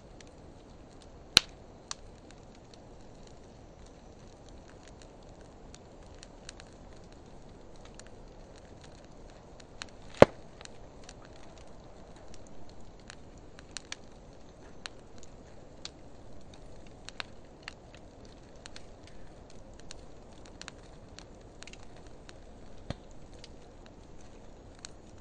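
Wood fire of driftwood and dry hardwood logs burning: a steady low hiss with scattered crackles throughout, and two loud sharp pops, about a second in and about ten seconds in.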